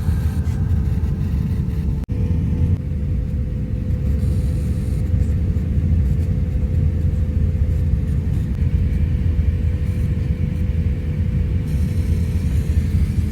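Airbus A350-1000 cabin noise heard from inside the cabin: a loud, steady low rumble with a constant hum. There is a brief dropout about two seconds in.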